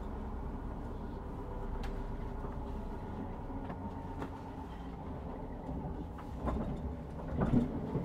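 Steady rumble and hum of a moving passenger train heard from inside the carriage, with faint clicks of the wheels over the rails. A few louder knocks come near the end.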